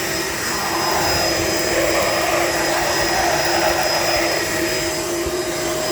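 Shark LA702 Lift-Away vacuum running with its hose out: a steady motor whine under rushing air. The tone shifts for a few seconds in the middle, then settles back to its steady pitch.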